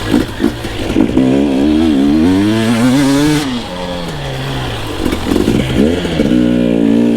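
Two-stroke enduro dirt bike engine revving up and down with the throttle while being ridden: a few quick blips, a long climb in pitch that drops off about three and a half seconds in, then more short blips.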